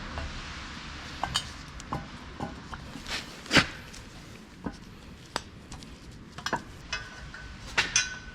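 Metal hand tools and parts clinking and clattering: a dozen or so sharp, irregular metallic clicks, the loudest about three and a half seconds in, a few leaving a short ring.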